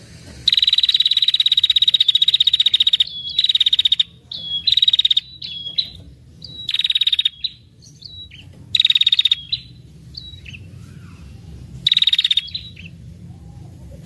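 Female red-headed prenjak giving its rapid, dry chattering trill, the long 'ngetir' call used to lure males. One long trill of about two and a half seconds comes first, then a string of shorter trills.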